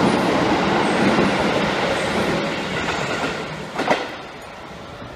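Electric commuter train running past a station platform, its rolling noise slowly fading. A sharp clack about four seconds in, after which it is quieter.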